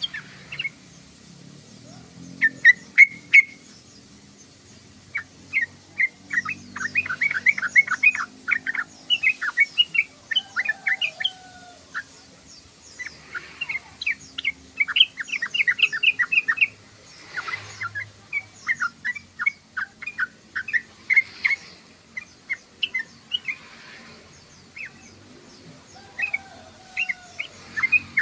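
Yellow-vented bulbul (trucukan) chattering: rapid bursts of short, sharp notes run together into phrases of a second or two, repeated again and again with brief pauses between.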